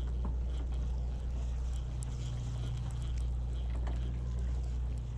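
Steady low drone of a sportfishing boat's engine, with a couple of faint knocks on deck.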